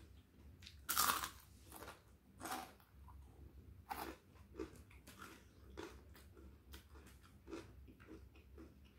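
Close-miked biting and chewing of crunchy fried tempeh: a loud crunch about a second in, then further crunches every second or so, softer toward the end.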